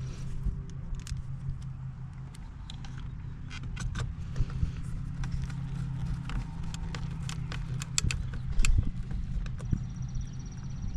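Scattered clicks, taps and light rattles of small plastic steering-wheel parts and tools being handled, with a louder knock about two-thirds of the way in, over a steady low hum.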